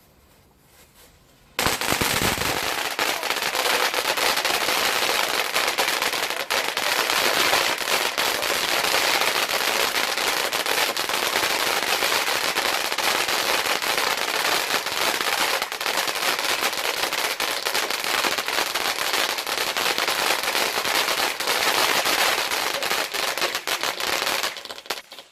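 A ground firework goes off about a second and a half in, with a low thump, then crackles and hisses densely and without a break for over twenty seconds before cutting off near the end.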